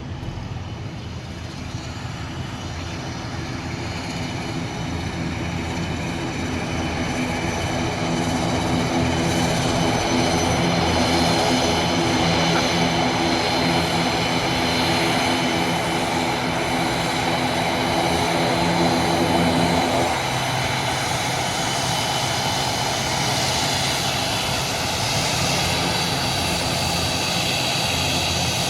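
Airliner engines running at taxi power as the aircraft approaches, growing louder over the first ten seconds or so. The engine tone shifts about twenty seconds in.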